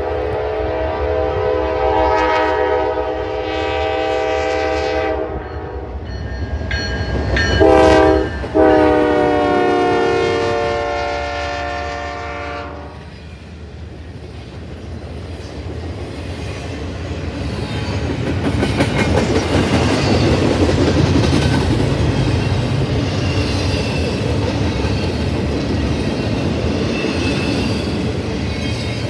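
Locomotive horn sounding a long blast, a short blast and another long blast, the grade-crossing signal. The train then passes close by with a steady rumble and clickety-clack of wheels on rail, building to its loudest about two-thirds of the way through.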